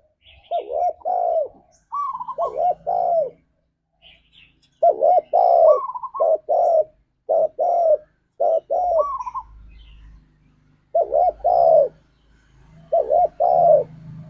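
Spotted dove cooing: about six phrases of two to four short, arching coo notes each, repeated with brief pauses between.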